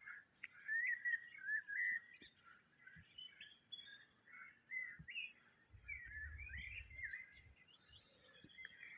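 Birds singing at dusk: a continuous chorus of short chirping and warbling notes. A brief low rumble about six seconds in.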